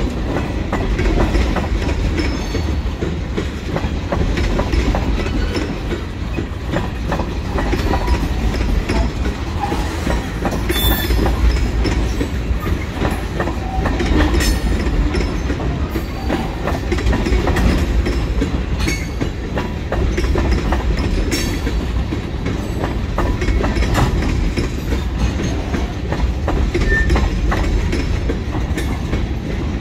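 Freight train of tank cars and a centerbeam flatcar rolling slowly past: a steady rumble with the clickety-clack of steel wheels knocking over rail joints, and brief high squeaks from the wheels now and then.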